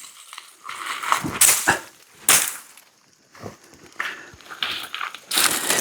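Brush and small branches rustling and snapping in a string of irregular strokes as a way is cleared through overgrown trail vegetation.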